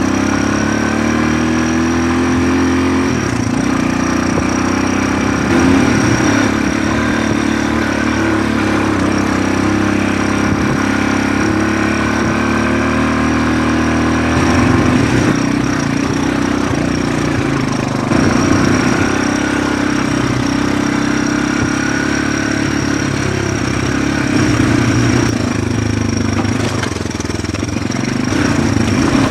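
1982 Honda CT200 ag bike's single-cylinder four-stroke engine running while the bike is ridden, with the throttle opening up briefly a few times.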